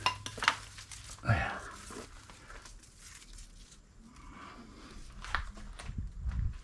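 A few scattered knocks and clicks from scrap brass and copper pieces being handled and sorted.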